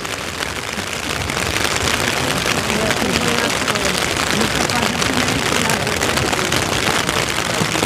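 Heavy rain falling steadily, a dense hiss of countless drops pattering down, with faint voices under it near the middle.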